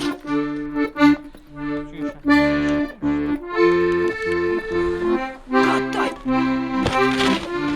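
Accordion music: sustained chords with a melody on top, changing every half second or so.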